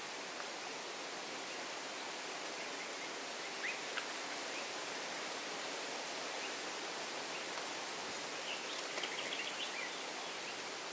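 Steady outdoor nature ambience, an even hiss, with a few faint bird chirps around four seconds in and a quick run of chirps about eight to ten seconds in.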